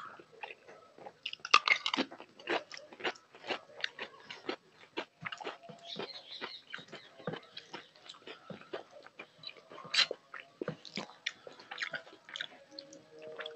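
A person chewing and biting food close to a lapel microphone: many short, crisp crunches and wet mouth clicks, loudest in a cluster about a second and a half in and again around ten seconds.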